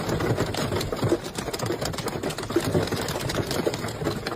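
Hail pelting hard surfaces: a dense, rapid, irregular clatter of impacts.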